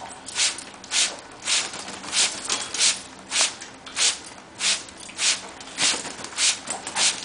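Hand-held trigger spray bottle squirting water in a steady rhythm, a short hiss of mist about every 0.6 seconds, a dozen squirts in all.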